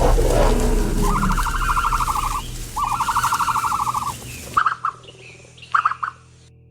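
A bird calling in two long, rapidly pulsed trills, then two short bursts of the same call. Background music fades out in the first second.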